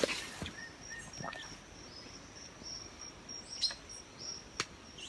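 Birds chirping outdoors in short repeated notes, busiest in the first second and a half. A thin high steady tone comes and goes later, with a couple of sharp clicks.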